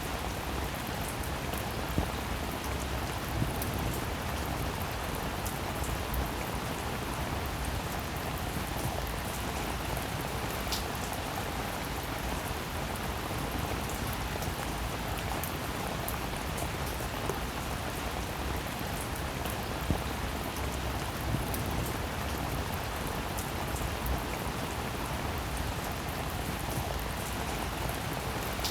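Steady rain falling, an even hiss with now and then a single drop ticking sharply on a nearby surface.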